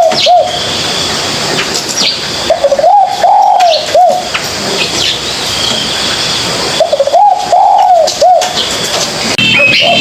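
Spotted dove cooing: a phrase of several low, rounded coo notes, repeated about every four seconds, with two full phrases and the tail of a third. Faint high chirps of other small birds sound in the background.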